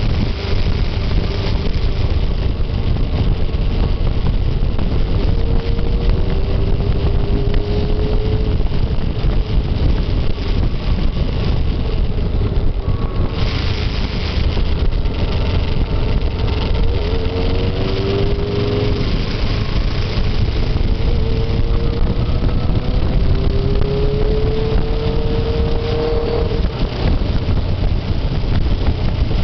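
Motorcycle engine running on the move, its note rising and falling several times with the throttle, under a heavy low rumble of wind.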